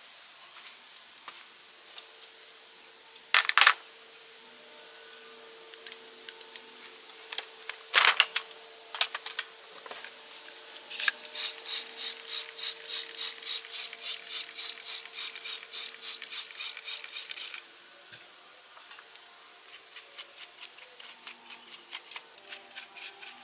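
Hand-tool work on metal: two sharp knocks, then a run of quick ticking clicks about four a second, then scattered clicks, over a faint steady hum.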